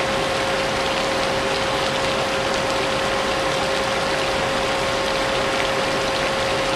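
Vacuum cleaner motor running steadily with a constant whine, blended with a steady rush of rain.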